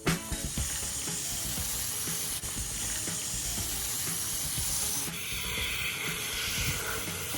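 Water spraying and splashing in a steady hiss as mould-stained air-conditioner outlet parts are washed, the sound shifting in tone about five seconds in.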